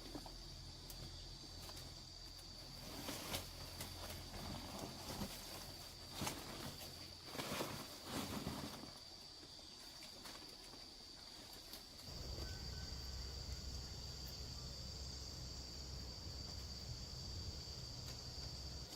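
Insects droning on one steady high pitch, with scattered knocks and rustles through the first half, and a low steady rumble joining after about twelve seconds.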